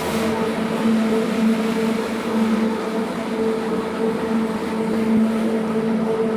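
Carpet-cleaning machine motor running steadily, with a constant hum over a rushing hiss.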